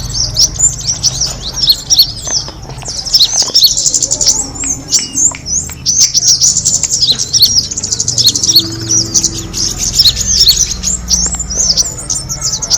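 A flock of small songbirds chirping and twittering nonstop, many short, high, overlapping calls, over a low steady rumble.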